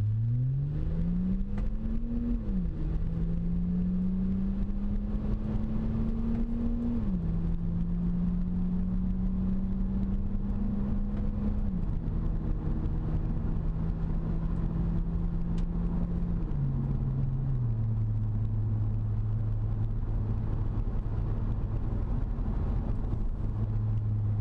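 Ford Fusion Sport's 2.7-litre twin-turbo V6 with a Magnaflow axle-back exhaust and both resonators deleted, heard inside the cabin while accelerating through the gears with manual SelectShift shifts. The exhaust note climbs steeply and drops at an upshift about two and a half seconds in. It climbs again until a second upshift at about seven seconds. Three more upshifts follow in the second half, each lowering the pitch, until it settles into a steady low cruise.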